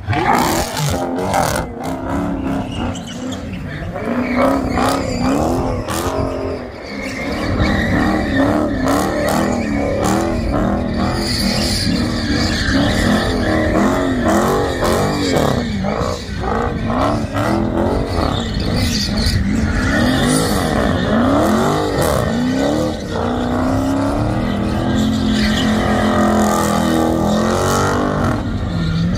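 A Dodge Hellcat's supercharged V8 revving hard again and again while the car slides and spins, tyres squealing; the engine note rises and falls many times, with a short let-up about six seconds in.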